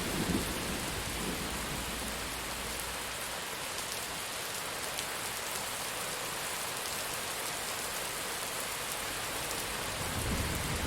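Steady rain falling in an even hiss. The low rumble of thunder dies away in the first moment, and a new rumble builds near the end.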